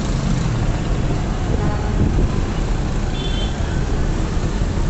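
Steady low rumble of a car in motion, road and engine noise as heard from inside the vehicle.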